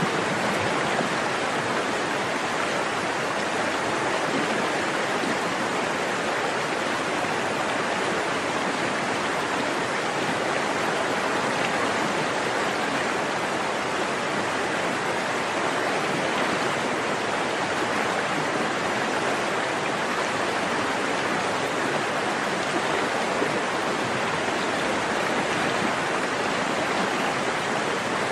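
Forest stream running steadily over rocks, an even rush of flowing water.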